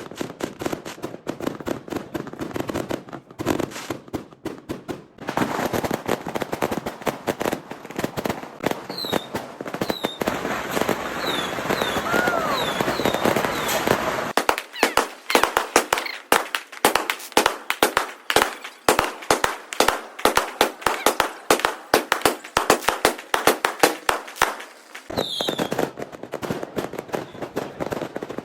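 Fireworks and firecrackers going off up close in dense, rapid strings of sharp bangs and crackles, with a few short high whistles among them.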